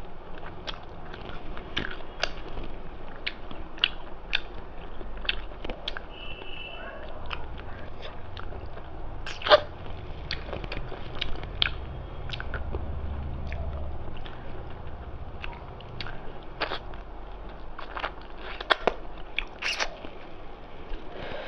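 A person chewing and biting food close to the microphone, eating rice with mutton curry: a steady run of sharp wet mouth clicks and small crunches, with one louder crack about nine seconds in.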